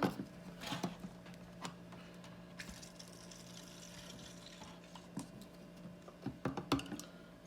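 Handling noises from injecting a turkey with a marinade injector: scattered light clicks and knocks, with a quick cluster of several about six and a half seconds in, over a steady low hum.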